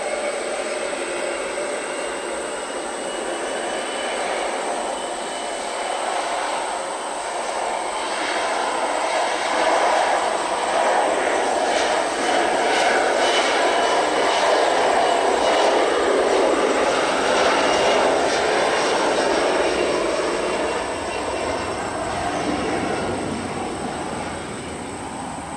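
Jet airliner's engines, the roar swelling to its loudest midway and fading toward the end, with a faint high whine rising and falling in the first several seconds.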